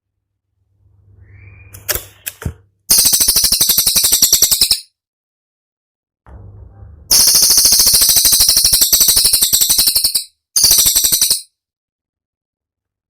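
Cililin songbird giving its 'tembakan' song: very fast, high-pitched rattling trills in three bursts, the middle one about three seconds long, after a few weaker chirps. A faint low hum sits beneath between the phrases.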